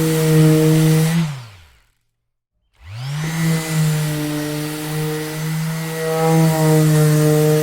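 Orbital sander motor running with a steady hum. About a second in, it is switched off and winds down in falling pitch to silence. Just under three seconds in, it is switched back on, spins up in rising pitch and runs steadily again.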